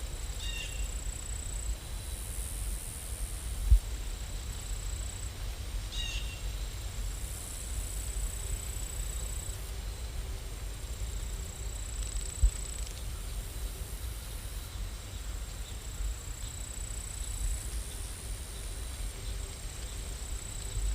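Steady rain ambience with a low rumble underneath, a faint high thin tone that comes and goes, and two short chirps about half a second and six seconds in.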